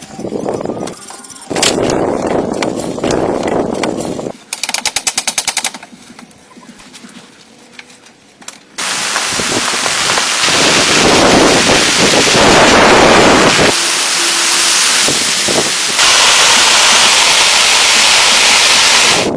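Power woodworking tools working hardwood. There is a short run of rapid, evenly spaced strikes, about ten a second, followed later by a long, loud, steady stretch of a tool cutting or planing the wood.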